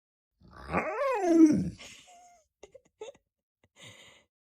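Golden retriever giving one drawn-out, whining grumble that falls in pitch, followed by a few faint short sounds.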